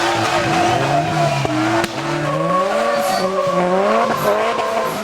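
A drift car's engine revving up and down again and again through a slide, with tyres squealing. A sharp click about two seconds in.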